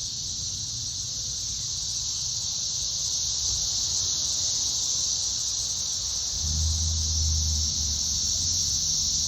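Chorus of thousands of periodical cicadas singing in the trees: a loud, steady, high-pitched drone with no break. A low rumble swells briefly about six and a half seconds in.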